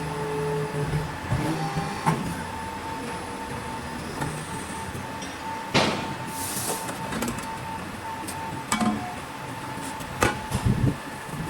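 CNC pipe bender running with a steady hydraulic hum and a held whine, with a few sharp metallic clanks about two, six, nine and ten seconds in.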